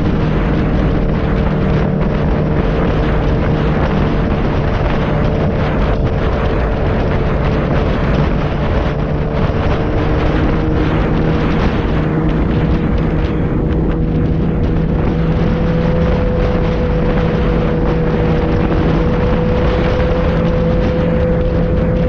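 Motorcycle engine running at a steady cruise, its pitch slowly rising a little through the second half, with wind and road noise rushing over it.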